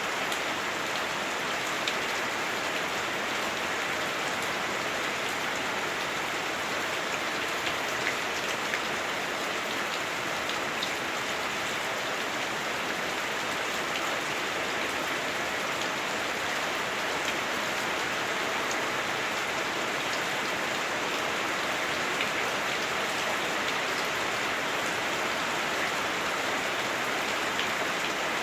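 Heavy rain falling on a house roof, heard from inside the house: a steady, even rush of rain with an occasional louder drop.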